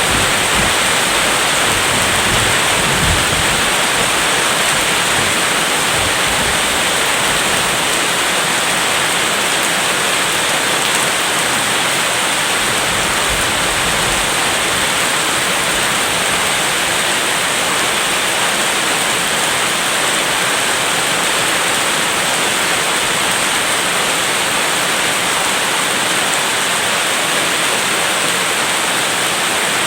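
Heavy, steady rain, with a low rumble of distant thunder during the first several seconds.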